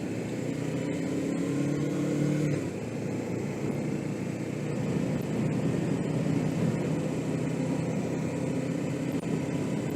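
Suzuki GS500E parallel-twin motorcycle engine running under way, with wind and road noise on a helmet-mounted microphone. The engine note rises slightly for the first couple of seconds, drops back, then holds steady.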